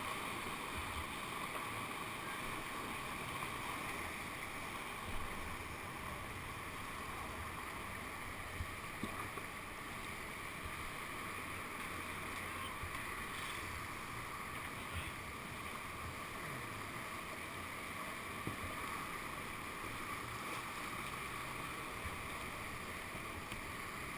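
Steady rush of whitewater in a man-made whitewater channel heard from a kayak, with a few faint knocks here and there.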